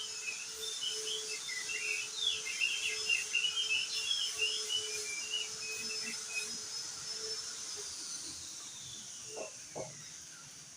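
Crested white-eye (opior jambul) singing a fast, jumbled run of high chirping notes for about seven seconds, over a steady high background tone. A faint tone slides downward near the end.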